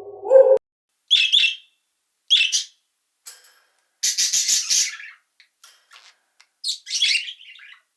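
A bird calling in separate groups of short, high chirps and rapid trilled squawks, with gaps of silence between them. A brief lower tone from the previous sound cuts off about half a second in.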